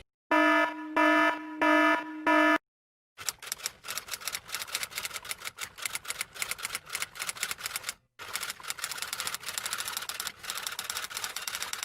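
A cartoon sound effect of an electronic beep pulsing four times, followed by a rapid, clattering typewriter keystroke sound that runs for several seconds and pauses briefly about eight seconds in.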